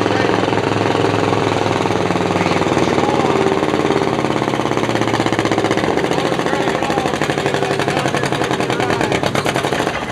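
Antique farm tractor engine pulling hard under load, its exhaust beating in a fast, steady rhythm that becomes more pronounced from about halfway through.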